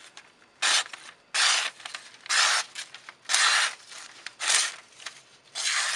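A freshly sharpened Wharncliffe knife blade slicing through paper in a sharpness test: six hissing cutting strokes, about one a second. The edge catches slightly in places but is very sharp.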